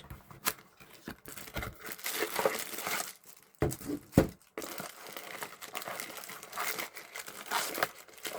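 Unboxing: cardboard and plastic packaging rustling and crinkling as a box is opened and its contents handled, with a couple of light knocks about four seconds in.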